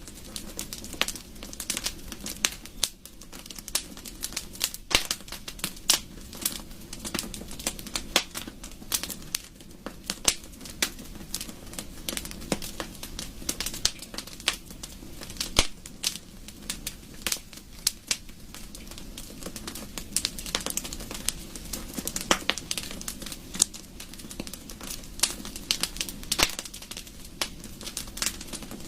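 Wood fire burning in a fireplace, crackling with many sharp, irregular pops and snaps over a low steady rush of flame.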